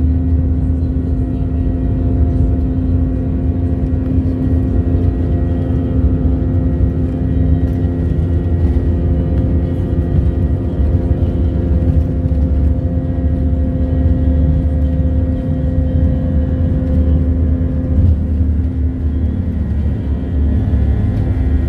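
Airplane engines running steadily under climb power: a loud, constant low rumble with steady hum tones. One of the higher hum tones stops about three and a half seconds before the end.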